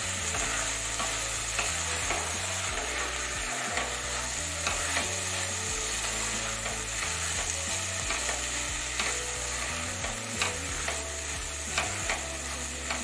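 Soaked masoor dal with onion and spices sizzling as it fries in a metal kadhai, stirred continuously with a spatula. The spatula scrapes and taps against the pan now and then over the steady sizzle.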